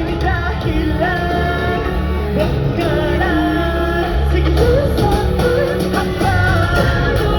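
Live amplified pop music with a sung melody over a heavy bass line, played through a concert sound system.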